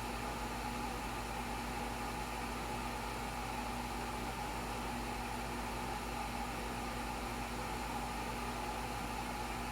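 Steady mechanical hum with a faint hiss, holding a few fixed tones throughout with no change.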